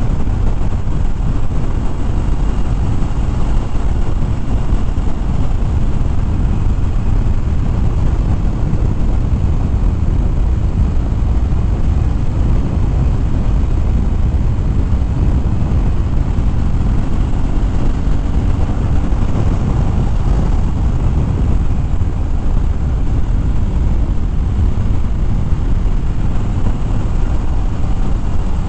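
Steady wind rush and V-twin engine drone of a 2013 Harley-Davidson Fat Bob cruising at speed, heard from the rider's helmet microphone. The level stays even throughout.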